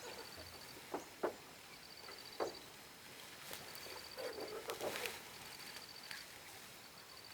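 An insect, cricket-like, chirping in short rapid trills at a high pitch, repeating about every second and a half, with a few sharp knocks and clicks about 1 and 2.5 seconds in and a cluster of them near the middle.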